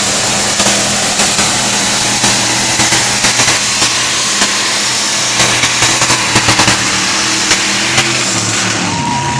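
A high-powered engine running loud and hard, with a dense hiss over steady low engine tones and frequent sharp cracks.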